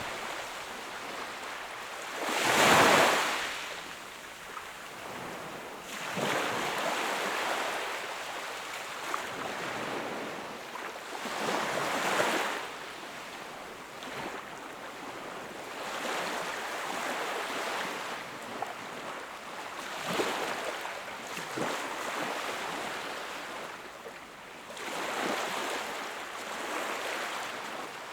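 Sea waves breaking and washing on the shore, rising and falling in swells every few seconds, the loudest one about three seconds in.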